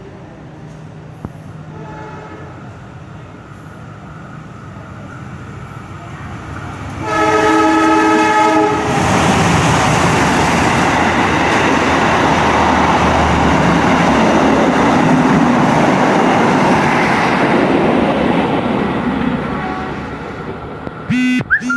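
A passenger train's horn gives a faint short blast about two seconds in, then a strong blast of nearly two seconds about seven seconds in. The train then runs straight through the station without stopping, with a loud steady rush of wheels and carriages for about ten seconds that fades toward the end.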